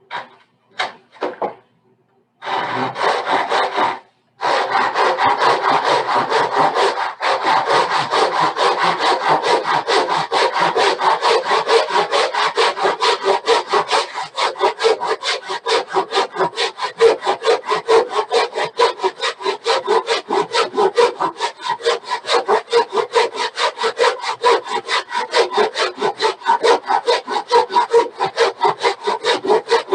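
Hand saw cutting across a wooden board: a few short starting strokes, then steady, rhythmic back-and-forth sawing strokes that carry on with only a brief pause, cutting a panel to length.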